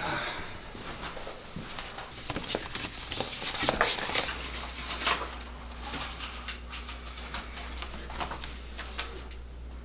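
Scattered light clicks, knocks and rustles of objects being handled, over a steady low hum.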